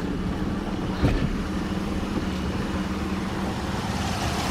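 A 2001 Pontiac Firebird's engine idling steadily, the steering wheel held turned so the power steering system is under pressure. A single short knock about a second in.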